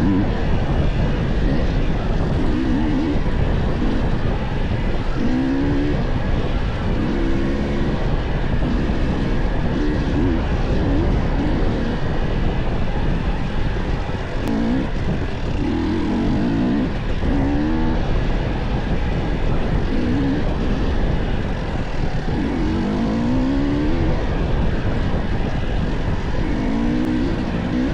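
Dirt bike engine revving up and falling back again and again on a trail ride, the pitch rising and dropping every second or two, over a steady bed of rushing noise.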